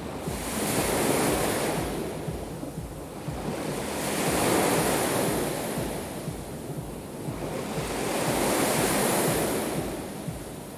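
Black Sea waves breaking and washing onto the shore, three swells a few seconds apart, with wind rumbling on the microphone.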